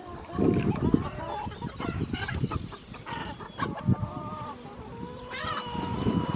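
A flock of laying hens clucking and calling, several birds at once with overlapping short calls.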